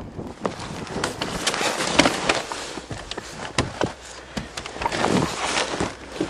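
Irregular clicks, knocks and rustling of someone handling the inside of a parked car before starting it, with the engine not yet running.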